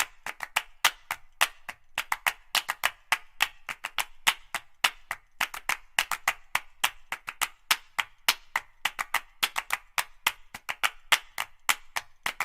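A rapid, uneven run of sharp clicks or taps, several a second.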